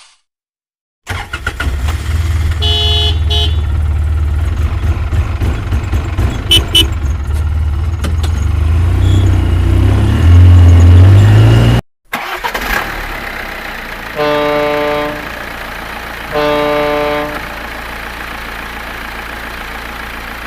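Truck engine running and revving up, then after a short break idling, with a brief horn toot about three seconds in and later two horn honks about a second long each, some two seconds apart.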